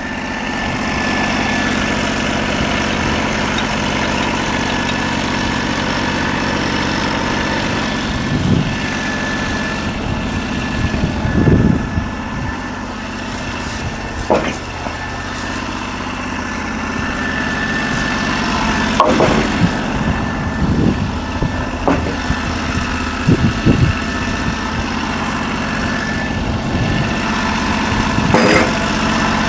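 Portable band sawmill's 16 hp engine running steadily, with a number of short, sharp knocks scattered through.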